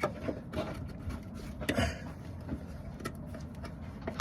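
Scattered light knocks and clicks of hand work on a car's front end, over a steady background hiss.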